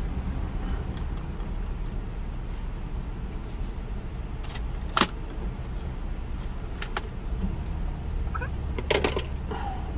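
Car engine idling, heard from inside the cabin as a steady low hum, with a few sharp clicks: the loudest about halfway, one about two seconds later, and a short cluster near the end.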